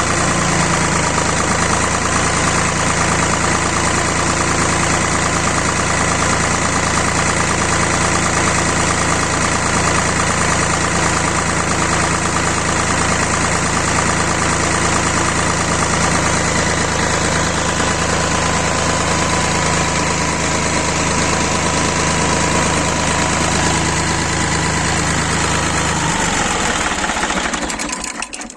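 D-130 diesel engine running steadily at idle, then shut off near the end and running down to a stop.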